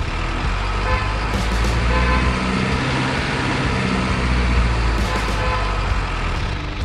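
Truck engine sound running steadily at a low, droning pitch, a little louder in the middle.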